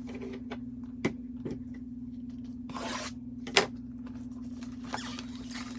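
A sealed box of trading cards being handled and torn open: rubbing and tearing of cardboard and plastic wrap, with a few sharp clicks and a brief rustle, over a steady low hum.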